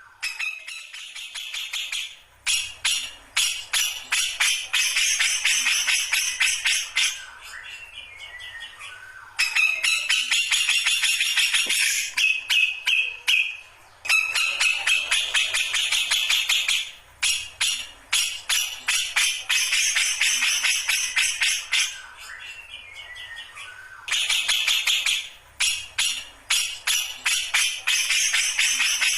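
Grey-cheeked bulbul (cucak jenggot) singing in full, busy song: long phrases of rapid, dense chattering notes, each lasting several seconds, broken by short pauses.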